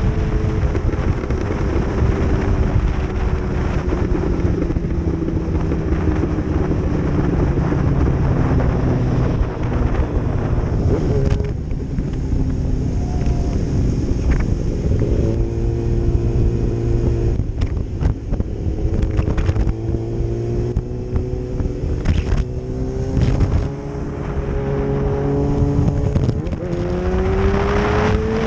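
Race motorcycle engines running at speed, the engine note easing down and holding steady, then rising near the end as the throttle opens.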